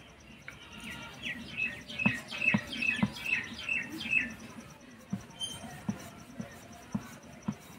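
A bird calling a quick run of about eight short, repeated chirps for about three seconds, with soft knocks of a wooden rolling pin on a stone rolling board as dough is rolled out, roughly one every half second.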